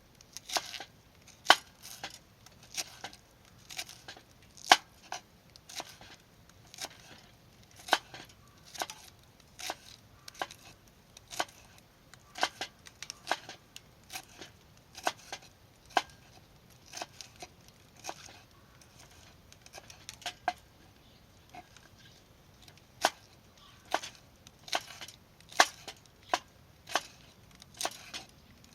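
Irregular sharp clicks and knocks, about one or two a second, some louder than others.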